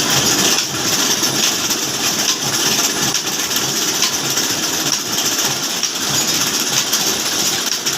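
Old Ruston Hornsby-type stationary diesel engine running with a steady, regular beat.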